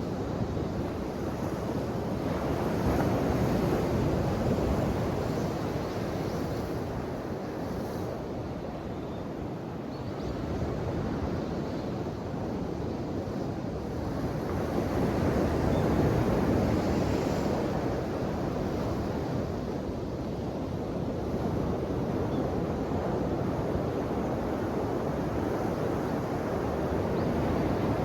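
Ocean surf washing continuously, swelling louder a few seconds in and again about halfway through as larger waves break.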